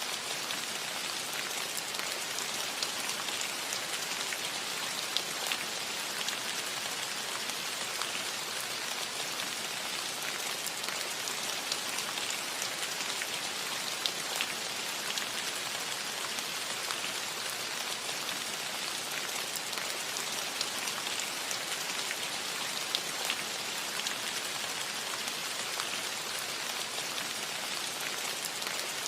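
Steady rain falling on a metal roof, an even hiss with scattered sharper drop ticks.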